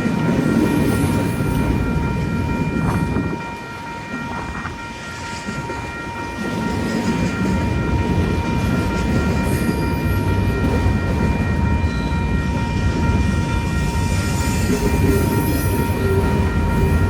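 A train running past on the tracks, a loud low rumble that eases briefly about four seconds in and then builds again. A steady high tone is held the whole time.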